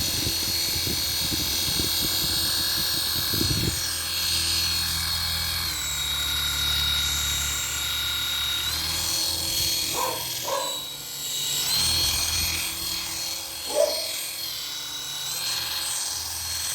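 Small palm-sensor RC toy helicopter's electric motor and rotors running with a steady high-pitched whine. The pitch steps down and back up a few times as the motor speed changes.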